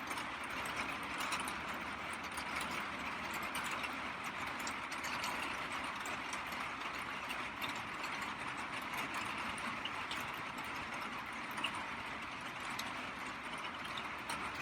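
Steady rain falling: an even hiss with many scattered sharp ticks of drops striking.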